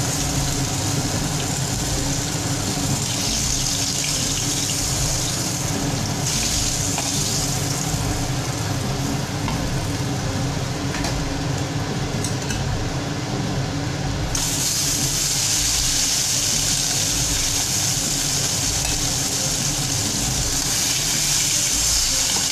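Katla fish-head pieces frying in hot mustard oil in an aluminium kadai: a steady sizzle. The sizzle thins in the middle, while the fried pieces are out and only oil is bubbling, then comes back fuller about two-thirds of the way through as fresh pieces go into the oil.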